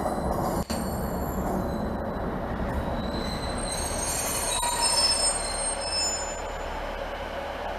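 A train moving slowly on the rails with a low rumble, its wheel flanges squealing in several high thin tones that grow loudest about halfway through and then fade.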